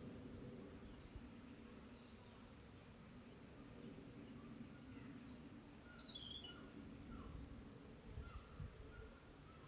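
Faint outdoor ambience: a steady, high-pitched insect drone like crickets, with scattered short bird chirps and a quick descending run of chirps about six seconds in.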